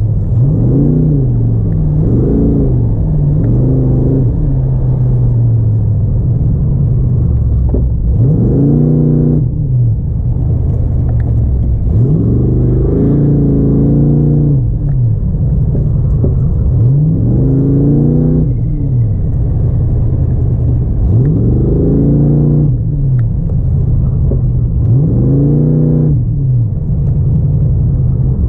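Car engine under hard driving on an autocross course, repeatedly revving up and dropping back every few seconds as the driver gets on and off the throttle through the turns.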